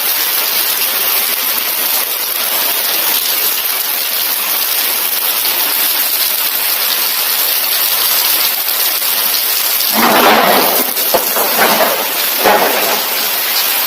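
Heavy tropical rain pouring down, a dense steady hiss of the downpour. About ten seconds in it grows louder and coarser, with a few sharp knocks near the end.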